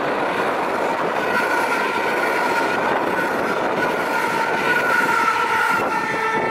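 Train running on the rails with a continuous rumble. From about a second in, steady high-pitched tones ring above it.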